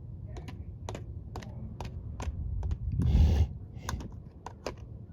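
Light, hard clicks at an even pace of about two a second, like hoofbeats, with a louder breathy rush about three seconds in.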